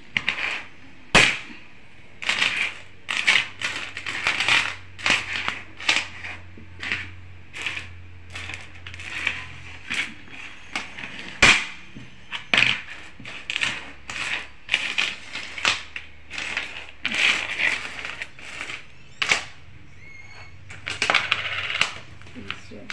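Metal coins clinking and scraping on a wooden tabletop as they are counted and slid into groups by hand, in short irregular bursts about one or two a second. There is a sharper knock about a second in and another near the middle.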